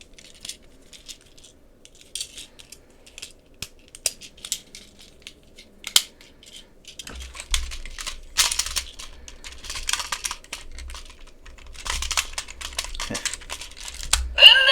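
Hard plastic toy parts clicking, tapping and clattering as they are handled and snapped together, with longer scraping handling noise and a low rumble from about seven seconds in.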